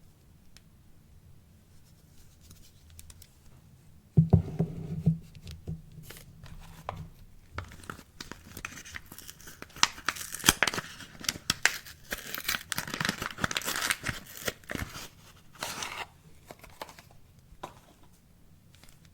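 Soap packaging being handled and torn open: a few knocks about four seconds in, then crackly tearing and crinkling of the wrapper for several seconds, dying away near the end.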